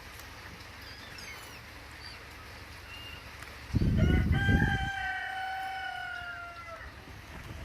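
A rooster crowing once, one long drawn-out call about four seconds in that sags slightly in pitch as it fades. Faint small-bird chirps sound throughout, and a low rumble of wind or handling on the microphone comes as the crow begins.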